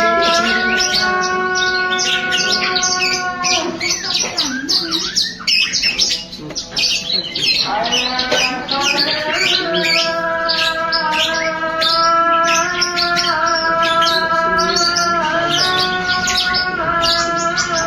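A songbird chattering in a rapid, dense stream of short chirps, over background music with long held tones that shift every few seconds; the chirping thins out for a few seconds about four seconds in.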